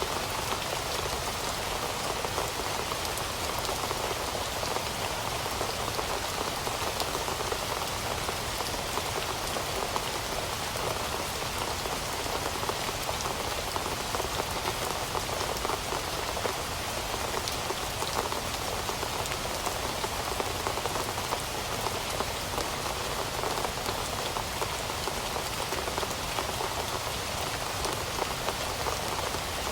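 Steady rain falling, a dense even patter of drops on leaves and surfaces.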